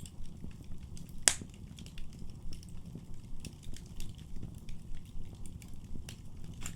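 Wood fire burning in a fireplace: a steady low rumble of flames with scattered crackles and one loud, sharp pop a little over a second in.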